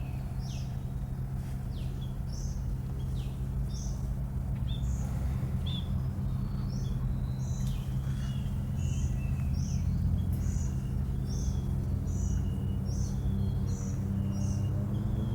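Birds chirping, many short high notes repeated in quick succession throughout, over a steady low hum.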